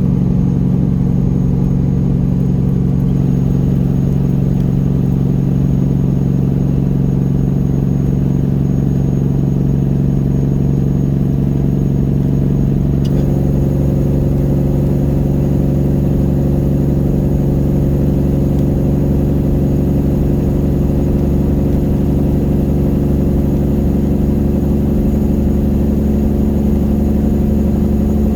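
1999 Peterbilt 379's Detroit Diesel Series 60 inline-six diesel running at steady revs through straight pipes, a loud steady drone. About thirteen seconds in, the tone shifts slightly.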